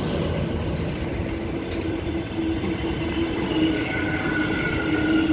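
Six-car Transperth electric multiple unit passing through a station platform without stopping: a continuous rumble with a steady hum, and faint higher whines joining about halfway through.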